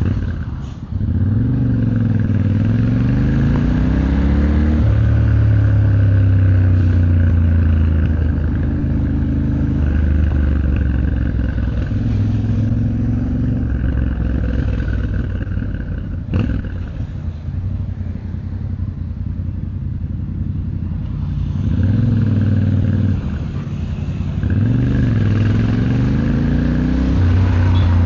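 Yamaha Ténéré 700's parallel-twin engine and exhaust under way, accelerating through several gear changes, its pitch climbing and dropping at each shift, in the first few seconds and again near the end. In between it cruises steadily and then runs lower and quieter for a few seconds, with one sharp click about halfway through.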